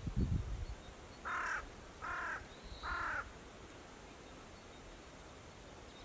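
A crow cawing three times in quick succession, each caw short and about a second apart, with a low thump or two of handling on the microphone just before.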